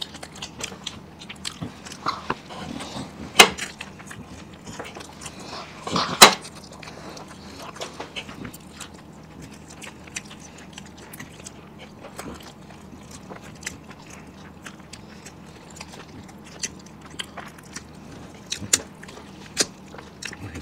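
Close-miked eating: biting into and chewing an egg roll, with many small wet mouth clicks and smacks. Two louder sharp smacks come about three and six seconds in.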